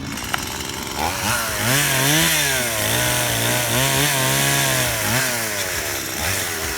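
Two-stroke gasoline chainsaw revving up about a second in and held at high speed for several seconds, wavering slightly in pitch. It drops back toward idle about five seconds in, with one more short rev near the end.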